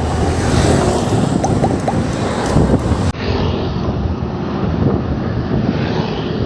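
Wind buffeting the microphone of a moving bicycle as a loud, uneven rumble, with a few faint short squeaks.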